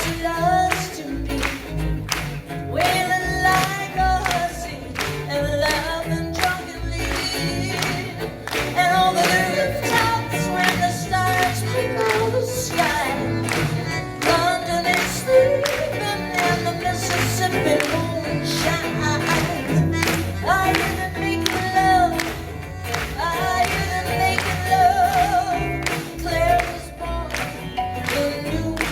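Live band music: a woman sings the melody over acoustic guitar and a steady beat.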